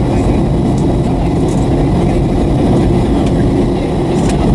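Steady drone of a Boeing 757-300's engines and rushing airflow heard inside the passenger cabin on approach, with a faint high steady whine above it.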